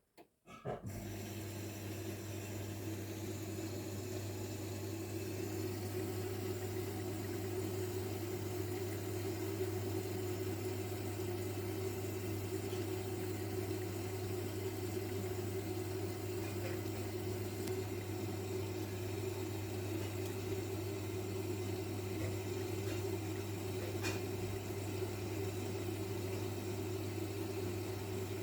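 Zanussi washing machine running with a steady low hum and rushing water, typical of the drum taking in water early in the wash. The sound cuts in just under a second in.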